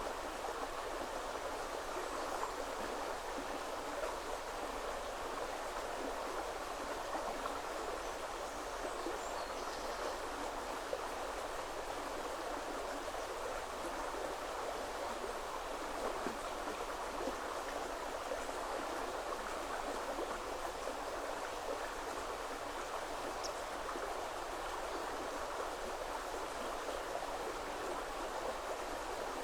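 Shallow woodland river flowing over stones: a steady, even rushing and babbling of water.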